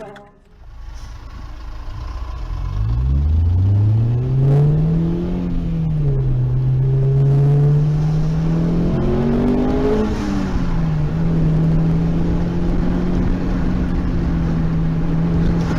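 A car engine accelerating: its pitch climbs steeply for a few seconds, eases back, then holds steady, with a brief dip about ten seconds in before settling at a steady pitch again, like a change of gear or easing off the throttle.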